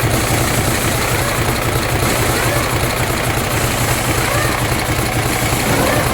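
Hino F17D twin-turbo V8 diesel truck engine idling steadily with a deep, even hum.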